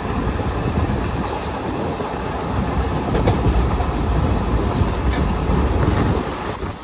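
Express train of ICF passenger coaches running at speed, heard from an open coach door: a loud, steady rumble of wheels on rails as it crosses a bridge.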